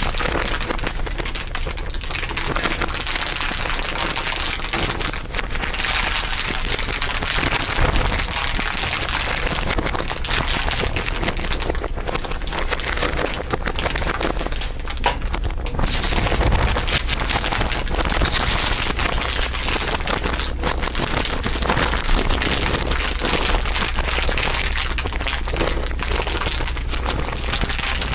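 Dense, continuous crinkling, several layers of crinkle sounds overlaid into one crackling texture.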